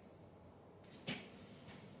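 A single short knock about a second in, over quiet room tone.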